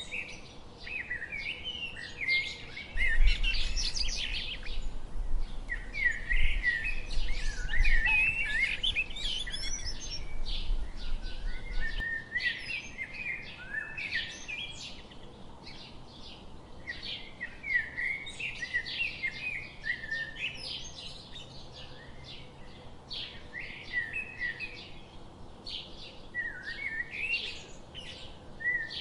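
Several songbirds chirping and calling in quick, overlapping bursts of short, high notes with little pause between them. A low rumble sits under the birdsong from about three seconds in until about twelve seconds in.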